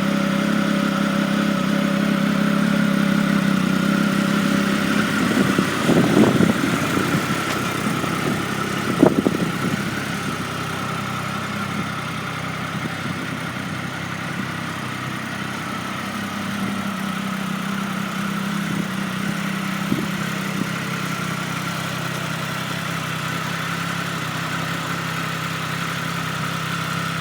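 Triumph Speed Triple's 1,050 cc three-cylinder engine running through an Arrow exhaust, idling steadily, with two brief louder bursts about six and nine seconds in.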